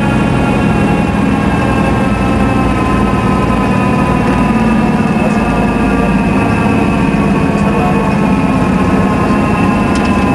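Cessna 172 SP's four-cylinder Lycoming engine and propeller running at a steady power, heard from inside the cabin as a loud, unchanging drone.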